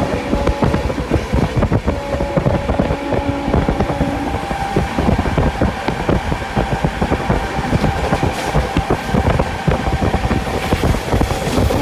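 Sampoorna Kranti Express train running at speed, heard from inside a coach: a continuous rumble and rattle of wheels on rail, with wind noise and a thin steady whine held through most of it.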